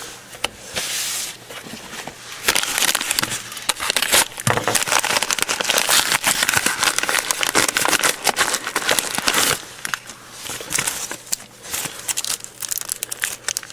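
Mail packaging being torn open and handled: paper and plastic crinkling, tearing and crackling in dense bursts, busiest through the middle.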